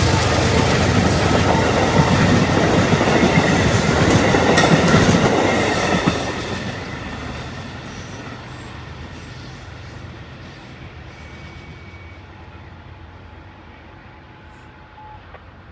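Amtrak train passing close by, its wheels running over the rails. The noise stays loud for about six seconds, then fades steadily as the train moves away.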